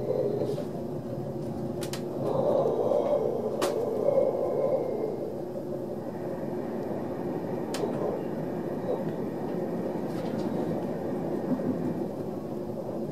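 Interior running noise of an ÖBB Railjet passenger coach in motion: a steady rumble that swells for a few seconds early on, with a few sharp clicks and rattles from the coach.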